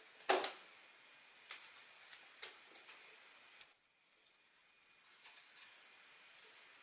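Orange-headed thrush giving a high, thin, downslurred 'ngecis' call about a second long, a little past the middle. It is preceded by three sharp clicks, with a faint steady high whine underneath.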